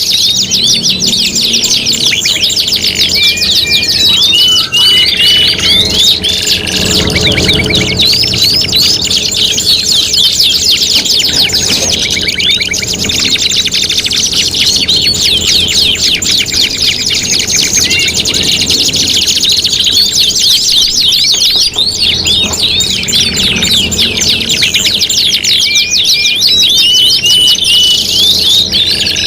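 Several domestic canaries singing together in long, fast rolling trills and chattering phrases that overlap without a break, with a few short whistled notes mixed in.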